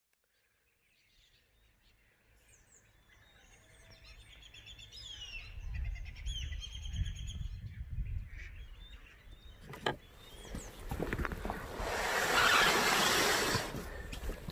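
Birds calling and chirping in repeated trills, over a low rumble. A sharp click comes about ten seconds in, and a loud rushing noise lasting about two seconds comes near the end.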